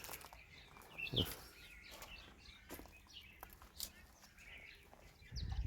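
Faint scattered bird chirps and short calls, with a brief knock about a second in; a low rumbling noise sets in near the end.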